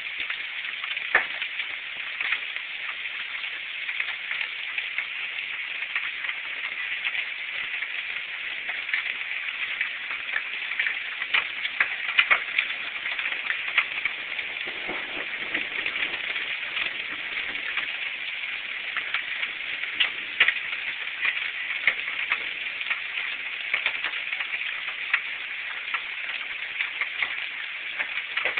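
Quarter-size hail and heavy rain pelting down in a severe storm: a dense steady hiss full of sharp clicks from hailstones striking, with a few louder hits. Recorded through a cell phone's microphone, so it sounds thin.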